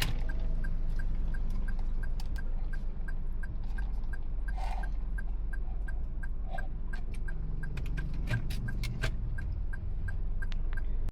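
Steady low rumble of a moving vehicle, likely a train, with a faint regular ticking about three times a second and a few scattered clicks.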